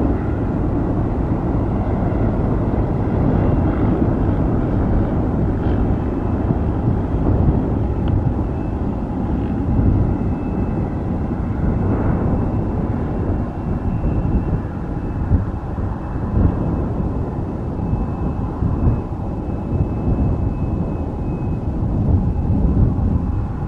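Airbus A330neo's Rolls-Royce Trent 7000 turbofan engines running during takeoff: a loud, steady, deep rumble, with a thin high whine that comes in about ten seconds in.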